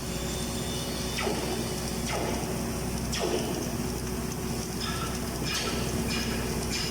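Steady low hum of a running engine or machine, with three short scraping sounds about a second apart in the first half.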